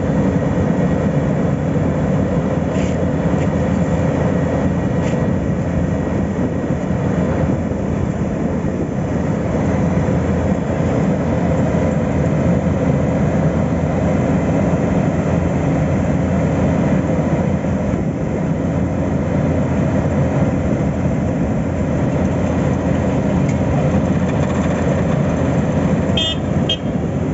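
Heavy road-paving machinery running steadily close by, a continuous engine drone with a few faint clicks and a short rattle of clicks near the end.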